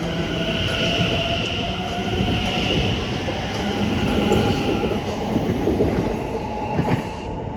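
Class 720 Aventra electric multiple unit pulling away, its traction motors whining over the rumble of the wheels, the whine rising slowly in pitch as it gathers speed. The sound drops away near the end.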